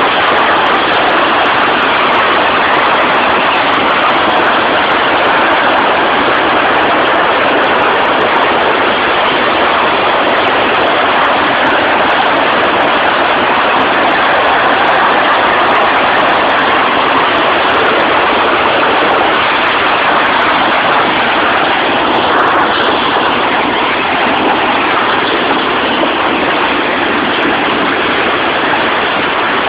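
Loud, steady rushing noise with no distinct tones, unchanging throughout.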